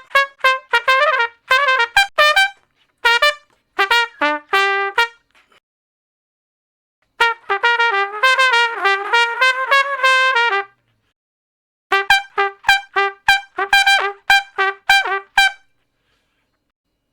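Solo trumpet playing short phrases of quick, separately tongued notes, with a longer smoothly connected phrase in the middle, each phrase followed by a couple of seconds of silence.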